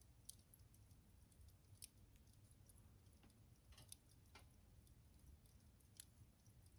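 Wood fire in a fireplace burning down to embers, giving faint, irregular crackles and ticks, about half a dozen in a few seconds, over a low steady hum.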